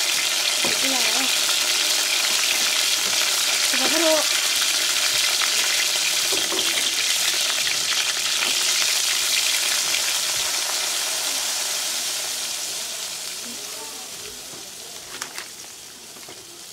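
Food frying in oil in a metal pot on a portable gas stove: a steady sizzling hiss that fades down over the last few seconds.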